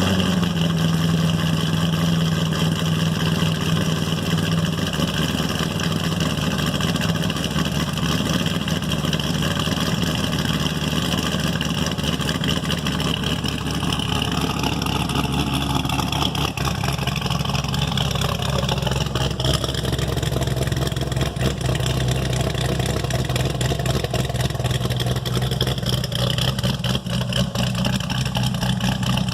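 Cammed LS7 V8 of a 2010 Corvette Z06 idling steadily just after start-up, through a newly fitted pair of factory mufflers. The idle settles slightly lower after about five seconds and then holds.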